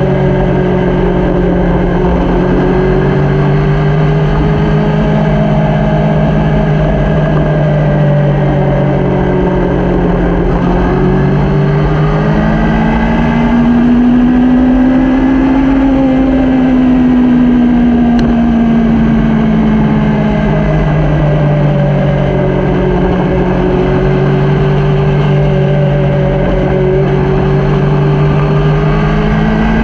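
Motorcycle engine running under way, its pitch stepping and gliding up and down with the throttle, rising about halfway through and easing back down, over a steady rushing noise.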